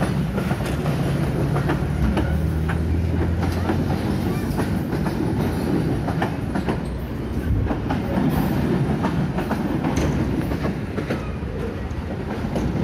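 Indonesian passenger train carriages rolling past, wheels clacking irregularly over the rail joints above a steady low hum.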